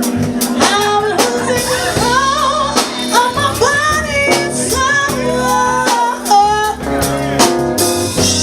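Live band music: a woman singing a melody over drum kit, bass and keyboard.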